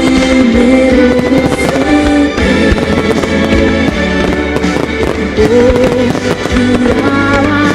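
A pop song's instrumental passage plays loudly, with aerial fireworks shells exploding repeatedly over the music.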